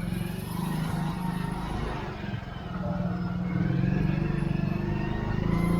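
Motorcycle engine running at low speed through market traffic, getting a little louder about halfway through.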